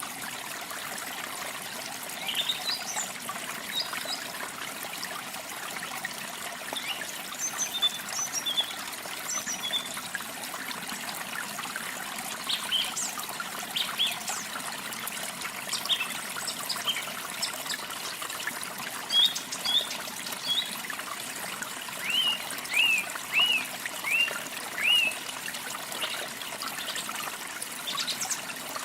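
Small songbirds chirping over a steady trickle of running water. The chirps are short and scattered, with a quick run of five about three-quarters of the way through.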